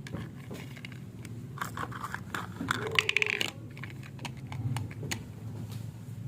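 Small plastic toy kitchen pieces clicking and clattering as they are handled, with a quick cluster of clicks in the middle.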